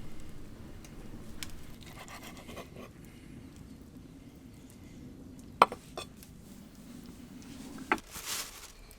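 A few sharp clicks and knocks, the loudest about five and a half seconds in and another near the end, over a low steady rumble.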